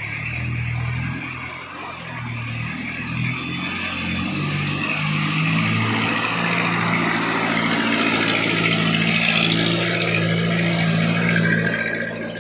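A truck's engine passing by. The engine note shifts in pitch over the first few seconds, then holds steady and grows louder, dropping away just before the end.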